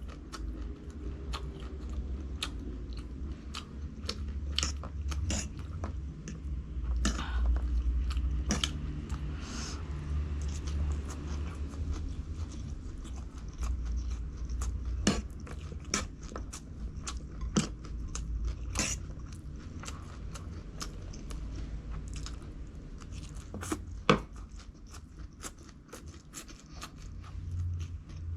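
Close-miked eating: a person biting and chewing crunchy food, with many short sharp crunches at irregular intervals and one louder crunch near the end.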